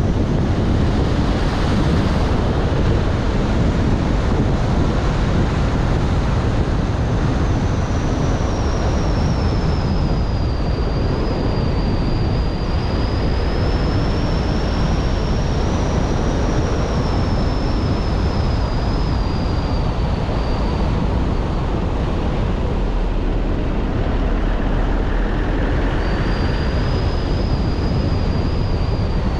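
Car driving on a winding hill road: steady road and wind noise. A thin, high whistling tone wavers in pitch for about 14 seconds and returns briefly near the end.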